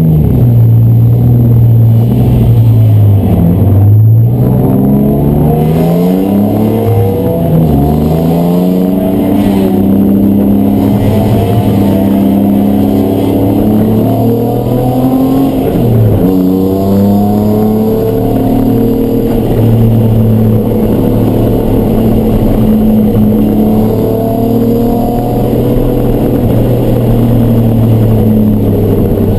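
Race car engine running hard on track, its revs climbing and falling over and over, with a few sharp drops where the driver lifts or shifts.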